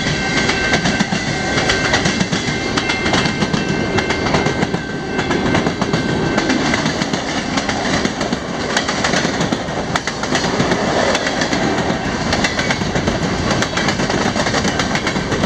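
Freight train rolling past at speed, a steady loud clatter of steel wheels clicking over the rail joints.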